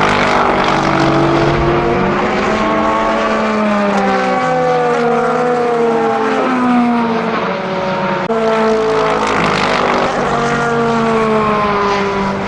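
Lexus RC F LMGT3's naturally aspirated 5-litre V8 racing engine running hard. Its pitch glides and steps between gears, and the note changes abruptly about eight seconds in.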